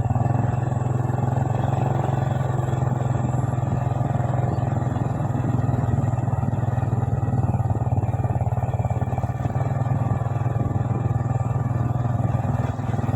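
Motorcycle engine running steadily while riding, a constant low hum with no change in pitch.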